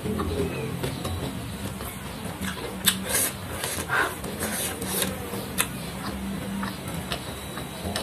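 Close-miked chewing and crunching of food eaten by hand, with irregular sharp crunches, the strongest about three, four and five and a half seconds in. Fingers squish and scoop through rice and sambal on the plate. A low steady hum runs underneath.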